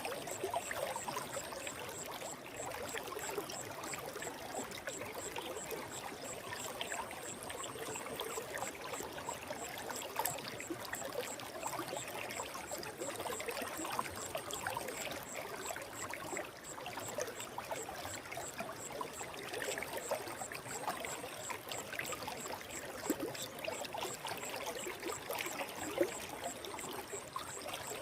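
Forest stream flowing steadily, an even rush of water with many small splashes.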